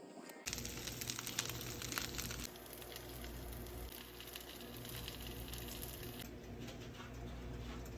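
Crackling, rustling noise over a low rumble on the microphone, starting suddenly about half a second in. The crackle is densest for the first couple of seconds and then thins out.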